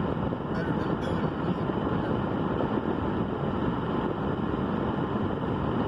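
Wind on the microphone, a steady low rumble.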